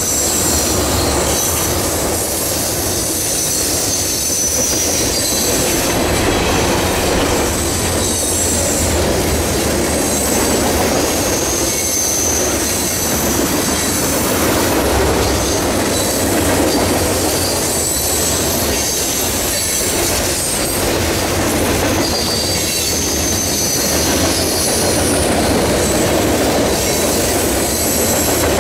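Train cars rolling steadily past with a continuous rumble. The wheels squeal against the rails in thin, wavering high screeches that come and go, over irregular clicks of wheels crossing rail joints.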